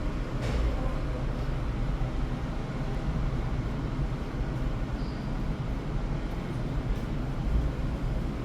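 Ferry's engines running: a steady low rumble with a fainter hiss over it.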